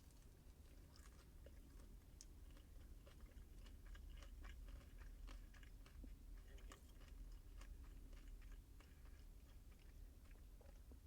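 Faint, close-up chewing of a crispy fried chicken sandwich with pickles, with many small irregular crunches and wet mouth clicks.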